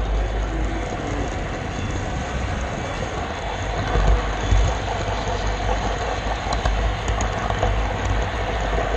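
Model railroad camera car rolling along the track, a steady rumble close to its onboard camera with a few light clicks.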